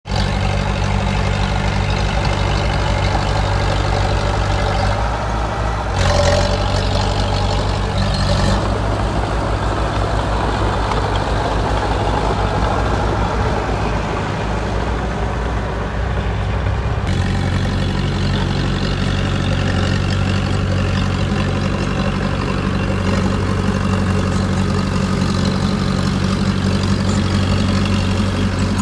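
Heavy diesel engines of earthmoving machinery running steadily, with a louder, hissier stretch about six to eight seconds in and a change in the engine note a little past halfway.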